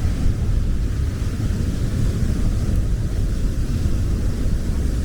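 Waterfall in full flow close by: a loud, steady rush of water with a deep rumble.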